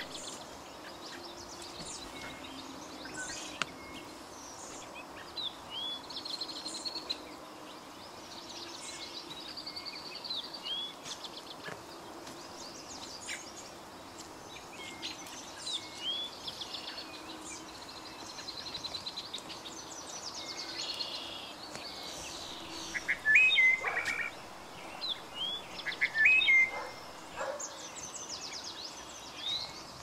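Several songbirds calling and singing over a steady outdoor hiss: short upswept chirps and fast trills throughout, with the loudest calls a little past three-quarters of the way through.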